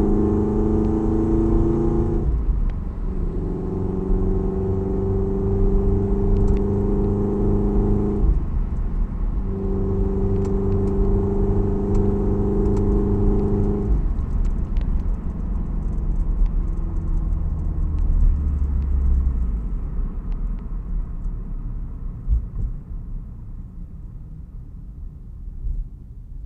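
Toyota 86's FA20 flat-four boxer engine with unequal-length headers and an aftermarket exhaust, running under steady throttle with a brief break in the note about 2 seconds in and again about 8 seconds in. After about 14 seconds it eases off and the note fades to a low rumble.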